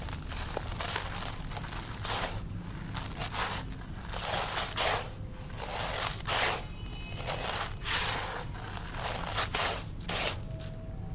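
Dry, dusty concrete being crushed and crumbled in a series of crunches, roughly one a second, loudest near the middle and again near the end.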